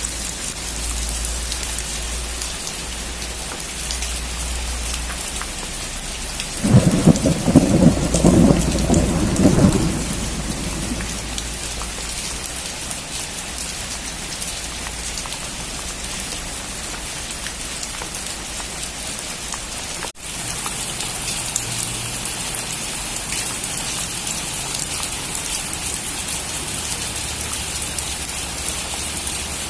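Steady heavy rain hissing, with a crackling, rumbling thunderclap about seven seconds in that lasts around three seconds. The rain briefly drops out about two-thirds of the way through, then carries on.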